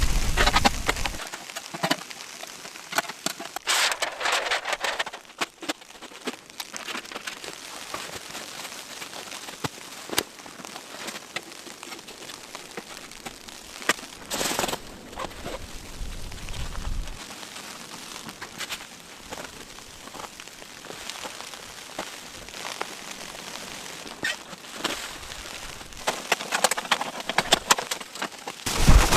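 Blizzard snow pattering and ticking on tent fabric in a steady spray of small hits, with a few louder swishes.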